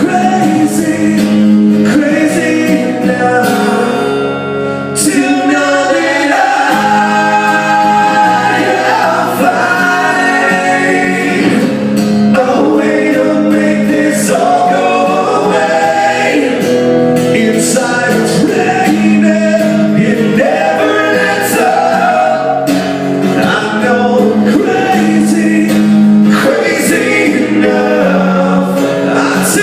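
Live acoustic rock song: acoustic guitar strumming while many voices sing the chorus, the audience singing along.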